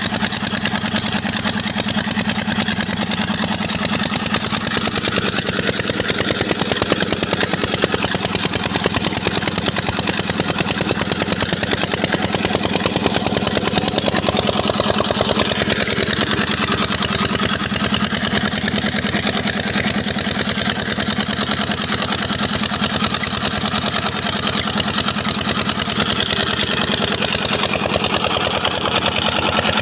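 Petter diesel engine driving a tube well pump, running steadily with a fast, even beat and no change in speed.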